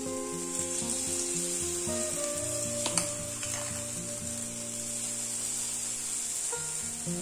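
Rava batter sizzling steadily as it is spooned into the hot oiled cups of an appe pan, with one sharp click about three seconds in.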